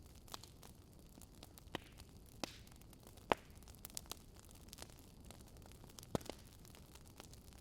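Wood fire crackling: irregular sharp pops and snaps over a soft steady hiss, with the loudest pops about a third of the way in and again past the middle.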